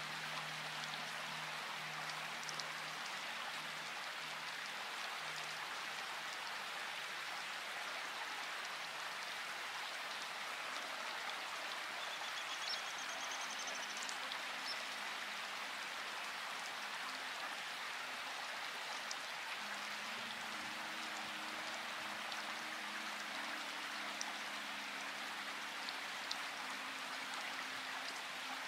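Steady rain falling, an even hiss with scattered drop ticks. Soft low held tones sit beneath it, changing pitch every few seconds.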